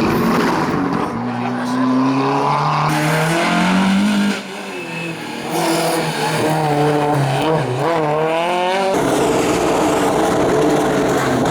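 Rally car engines revving hard, their note climbing with acceleration and dropping at gear changes and lifts. Several cars follow one another with abrupt changes between them.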